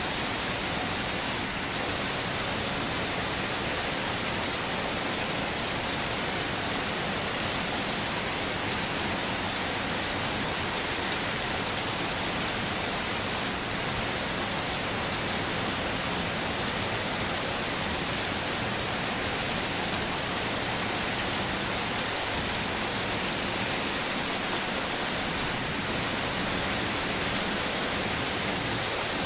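Steady heavy rain, an even dense hiss with no single drops standing out. Three times, about twelve seconds apart, the hiss briefly drops for a moment before carrying on.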